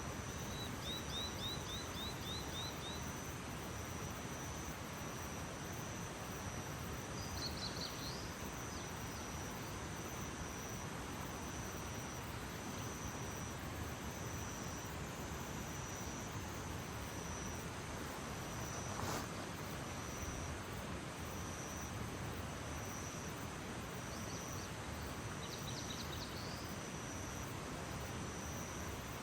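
Early-morning outdoor ambience: a steady background hiss with an insect's high, regular pulsing call about once a second throughout. A small bird gives a quick trill about a second in and short chirps around a quarter of the way through and near the end, and there is a single sharp click about two-thirds of the way in.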